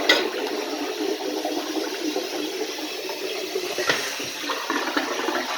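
A 1991 URC toilet flushing: a sharp click at the start, then a steady rush of water, with another sharp click about four seconds in.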